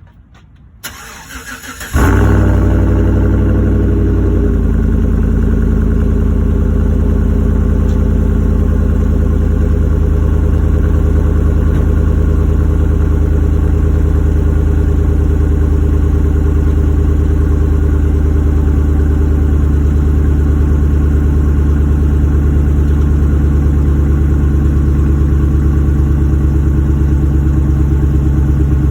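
GM 5.3-litre V8 cold start: a short knock, then the engine catches about two seconds in. It flares briefly, settles slightly around four and a half seconds in, and then runs at a steady fast cold idle.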